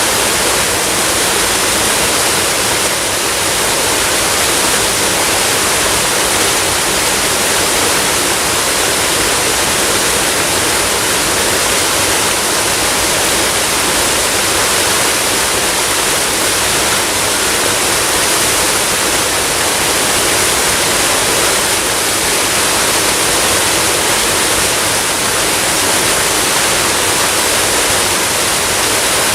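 Waterfall: water rushing and splashing in a steady, unbroken roar with no change in level.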